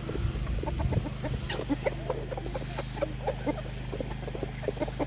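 Chickens clucking, many short clucks overlapping in quick succession, over a steady low hum.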